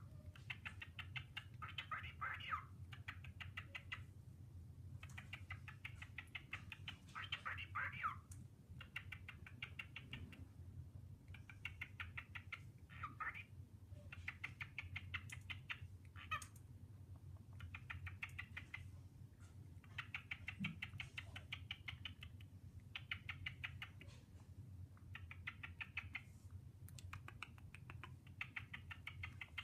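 Male cockatiel chattering: rapid, pulsed warbling phrases a second or two long, repeated throughout with short breaks between them.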